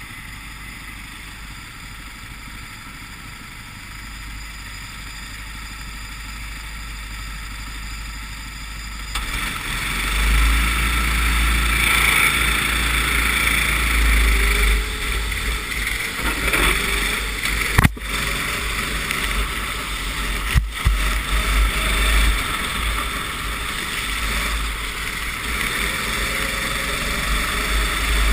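Racing kart engine running, heard from on board in the rain with wet spray and wind hiss over it: quieter at first, then much louder from about nine seconds in as the kart picks up speed. Two sharp knocks come about a second apart later on.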